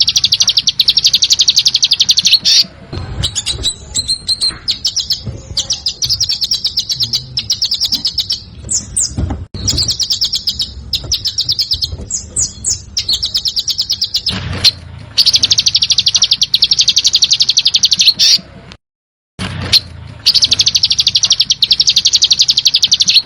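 A songbird giving harsh, very rapid rattling trills (the 'besetan' song type), in phrases a few seconds long separated by short breaks.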